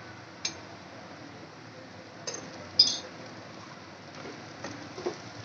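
Dosa batter frying quietly on a hot tawa, a steady faint sizzle, with three sharp metal clinks of a utensil against the pan, the loudest about three seconds in.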